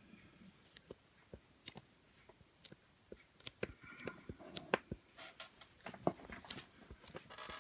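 Faint, irregular light clicks and taps with brief scrapes, growing busier about halfway through, from Play-Doh clay being handled with its plastic moulds and tools.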